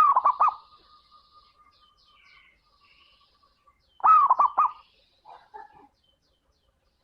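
Zebra dove (perkutut) cooing: two of its rhythmic song phrases about four seconds apart, each a rising note followed by quick repeated coos, with faint higher chirping in between.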